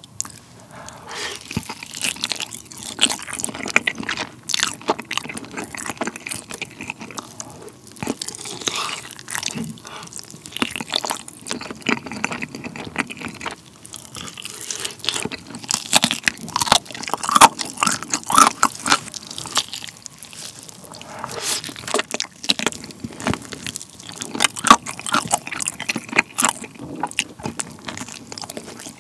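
Close-miked biting and chewing of a mayonnaise-topped grilled chicken leg: a dense run of small clicks and smacks from the mouth, with louder stretches about halfway through and again near the end.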